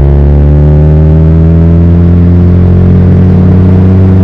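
Car engine running while driving: a steady drone with the revs easing slowly down.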